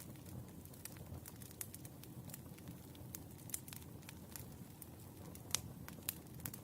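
Wood fire crackling: irregular sharp pops and snaps over a low, steady rumble of burning logs, the loudest pop about five and a half seconds in.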